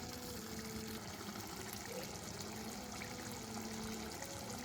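Tamarind fish curry bubbling steadily in a pan on high heat, with a faint low hum under it.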